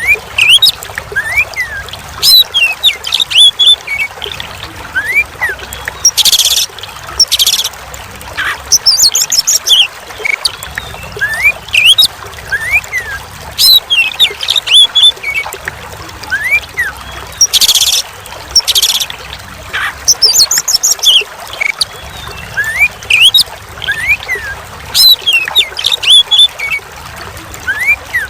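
Oriental magpie-robin (kacer) singing: a rapid string of short rising whistles and a few harsh bursts, over a steady trickle of running water. The same stretch of song repeats about every eleven seconds.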